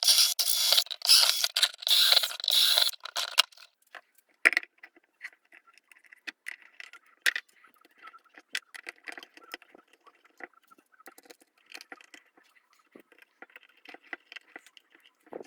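A harsh scraping noise for about three seconds, pulsing a few times, then scattered light clicks and small rattles of parts and tools being handled.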